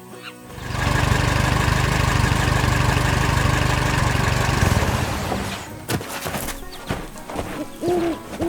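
A machine engine running, a loud rumble with a fast low pulse that starts about a second in and dies away after about five seconds. Scattered clicks follow, and a short croaking call comes near the end.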